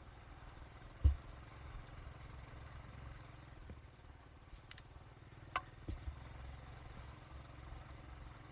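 Low, steady rumble of a vehicle on the move, with one loud thump about a second in and a couple of smaller knocks near the six-second mark.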